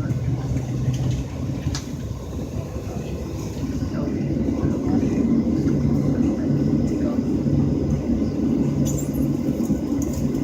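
Steady low drone of a Boeing 737-700's cabin air system heard from a passenger seat, with a low hum that comes and goes in the second half.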